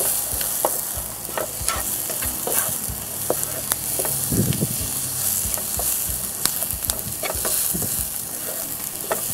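Sliced onions, garlic and ginger sizzling in hot oil in a frying pan, with a steady hiss. A plastic slotted spatula scrapes and taps against the pan at irregular intervals as they are stirred.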